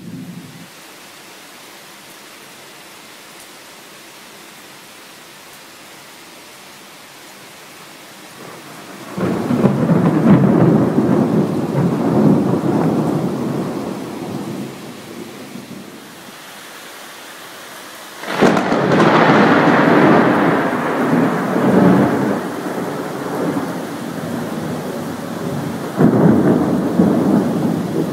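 Thunderstorm: steady rain with three long rolls of thunder, about nine seconds in, halfway through and near the end. The middle one starts with a sharper crack.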